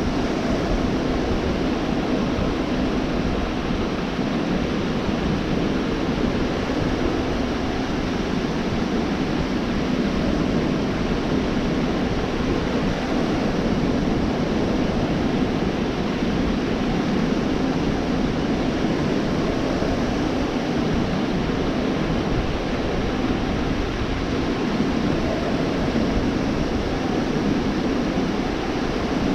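Gulf of Mexico surf washing onto a beach: a steady, unbroken wash of waves with no single breaker standing out.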